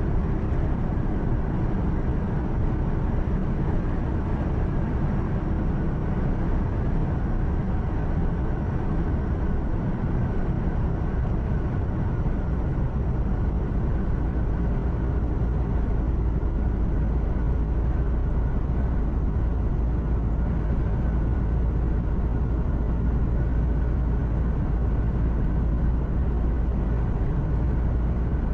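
Truck cab noise while driving: a steady low engine hum with road and tyre noise.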